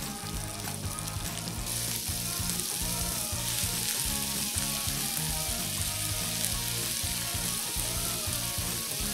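Sliced onion, garlic and chilies frying in oil in a nonstick pan, a steady sizzle that grows louder a couple of seconds in as diced tomato goes into the pan.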